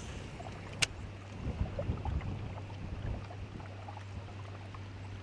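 Newport NV62 electric trolling motor running with a steady low hum, and a single sharp click just under a second in.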